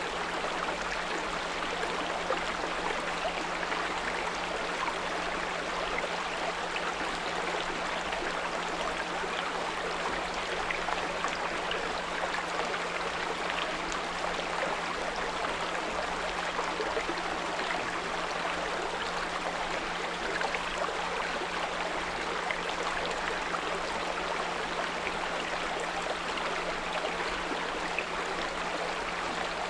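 Small brook flowing with a steady, even rush and babble. A continuous low 174 Hz pure tone sounds beneath it without change.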